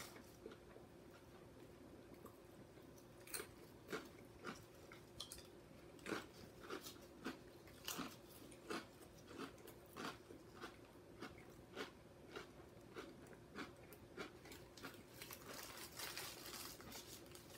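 Close-up crunchy chewing of pickle spears, a crisp crunch about every half second to second, over a faint steady hum.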